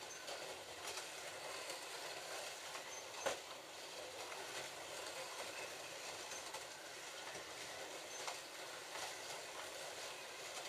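Several slot cars running laps on a plastic track: a steady whir of their small electric motors and guide braids, with a sharp click about three seconds in and a lighter one near eight seconds.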